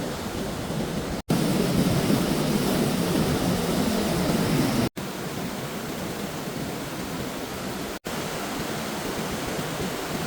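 Steady rushing of floodwater, an even noise without tones, broken by abrupt edit cuts three times. The stretch after the first cut, about a second in, is louder and fuller.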